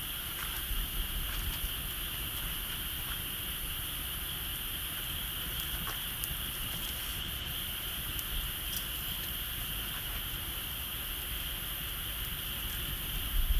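Outdoor bonfire with scattered faint crackles and ticks, over a steady high-pitched insect chorus and a low rumble.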